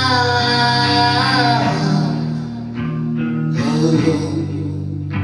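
Live rock band playing: a sung note held over sustained electric guitar chords, wavering and ending about two seconds in, then short drum hits over the chords.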